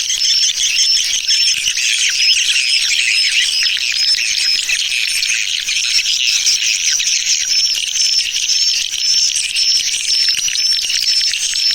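Swiftlet lure call: dense, steady twittering chirps of edible-nest swiftlets, with a short high beep repeating at an even pace throughout.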